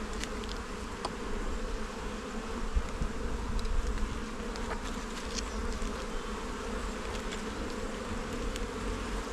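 Honey bee colony buzzing steadily in an opened hive packed with bees, with a few faint clicks.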